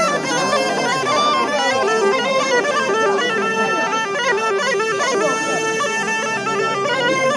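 A loud, reedy wind instrument of the bagpipe or reed-pipe kind playing a continuous melody of held notes that step up and down in pitch.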